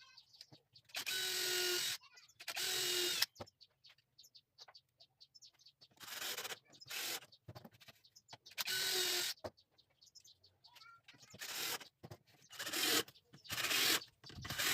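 Power drill driving hinge screws into a wooden cabinet door: about nine short runs of motor whine, the first few about a second long, the later ones shorter and quicker, with pauses between them.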